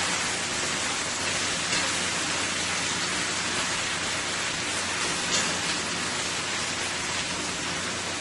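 Marinated chicken slices frying in stir-fry sauce in a hot pan, a steady sizzle.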